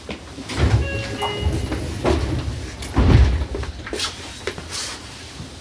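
Irregular knocks and thumps inside a Seibu 6000 series commuter car standing at a station stop, the heaviest about half a second and three seconds in, with a few brief high tones about a second in.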